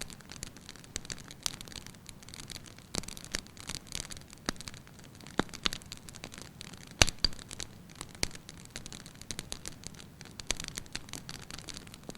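Wood fire burning in a fireplace: a steady low hiss with frequent sharp crackles and pops, the loudest pop about seven seconds in.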